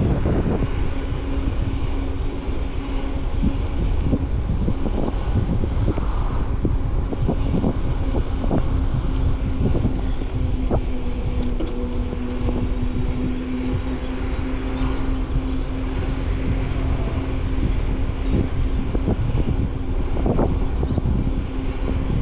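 Handlebar-mounted camera on a moving bicycle: wind buffeting the microphone and tyre rumble, with frequent small knocks and rattles from bumps in the path. A steady hum runs underneath.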